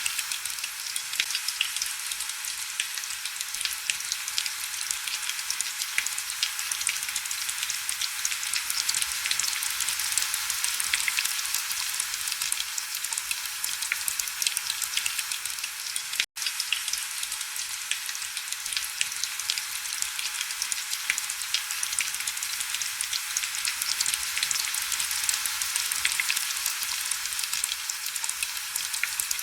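Heavy rain hitting window glass, a dense, steady patter of fine drops with little low end. It drops out to silence for an instant about halfway through.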